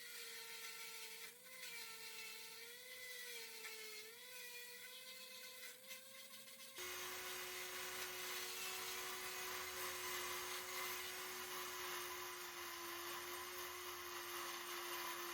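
Small electric power tool whining, its pitch dipping repeatedly as it is loaded against the work. About seven seconds in the sound cuts to a lower, steadier whine with more hiss.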